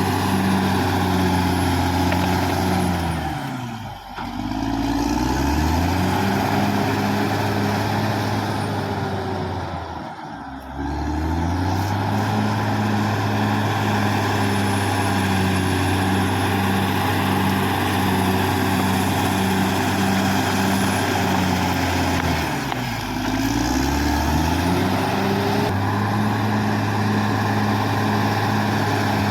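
Caterpillar D6R XL bulldozer's diesel engine running steadily, its revs dipping and climbing back three times.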